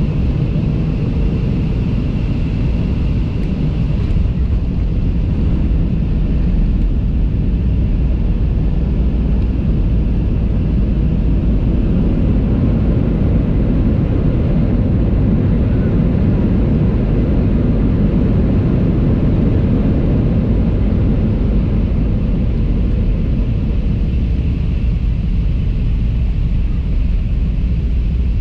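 Boeing 737 cabin noise: the steady roar of jet engines and rushing air heard inside the cabin, deep and even, swelling slightly midway with no sharp impacts.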